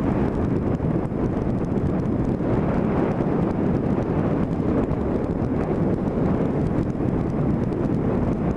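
Steady wind rushing over the microphone of a camera mounted on a moving vehicle, mixed with the vehicle's road noise.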